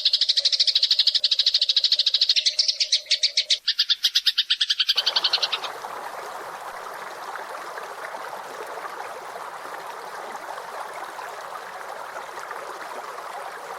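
Recorded songbird song: a rapid, evenly pulsed high-pitched chirping trill for about five seconds. It then gives way to a quieter, rough, dense chattering of lower pitch.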